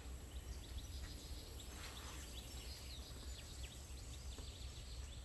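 Faint birdsong: many short, high chirps scattered over a steady background of low rumble and high hiss.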